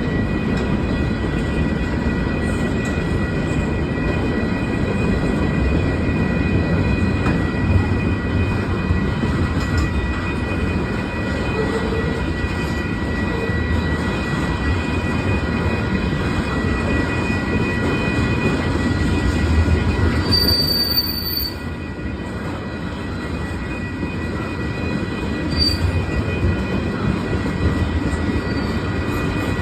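Loaded freight cars of a long freight train rolling past, a steady rumble of steel wheels on rail, with a high wheel squeal held throughout.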